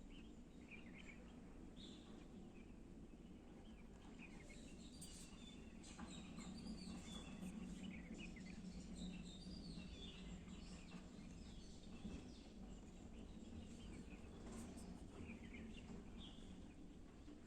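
Faint birds chirping in short scattered calls over a steady low background hum.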